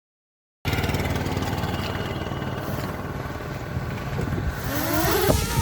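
A motor vehicle on the road: engine and road rumble that cuts in suddenly about half a second in and runs steadily. A few rising tones come in over it near the end.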